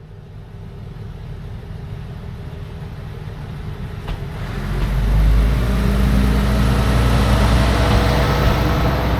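Minami Aso Railway diesel train approaching, its engine and running noise building up. It grows much louder about four and a half seconds in, with a deep rumble.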